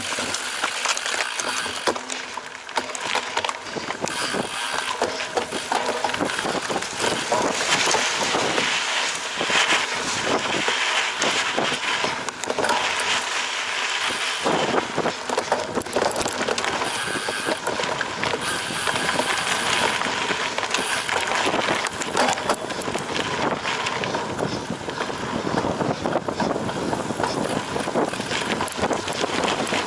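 Cyclocross bike ridden hard over a rough course: continuous rattling and knocking of the bike over bumpy ground with tyre noise.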